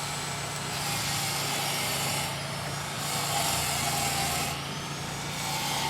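A vehicle engine running steadily with a low hum, with three swells of hissing road noise passing over it.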